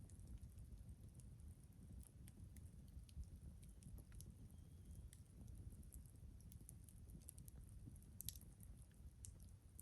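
Wood fire crackling faintly, with scattered small pops and snaps over a low rumble. A slightly louder cluster of pops comes a bit after eight seconds in.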